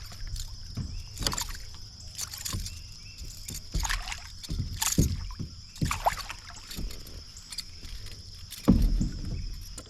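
Irregular knocks, bumps and rattles of gear and handling against a plastic fishing kayak's hull, with a louder thump near the end, over a steady high drone of insects.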